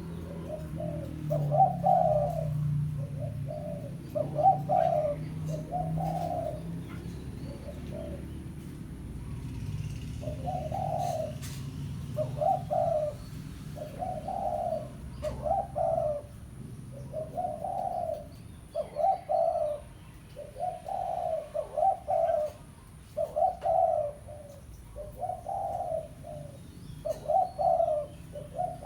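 Spotted dove cooing: a long series of short, low coo notes in repeated phrases, with a pause of a couple of seconds about eight seconds in. This is the tekukur call that is played as a lure to draw in wild doves.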